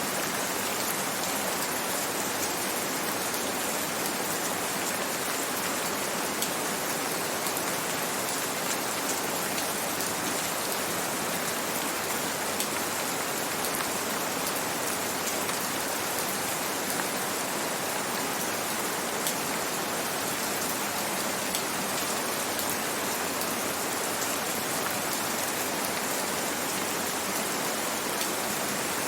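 Gentle rain falling steadily: an even hiss with scattered faint drop ticks.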